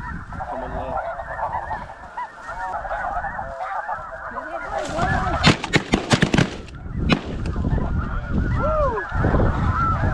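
A large flock of snow geese calling, a dense, continuous chorus of overlapping high honks. About halfway through, a volley of roughly half a dozen shotgun shots fires in quick succession.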